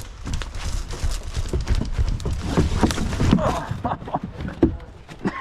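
Footsteps, with irregular thuds and knocks of gear as a player moves on foot over the forest floor, over a low rumble of handling noise.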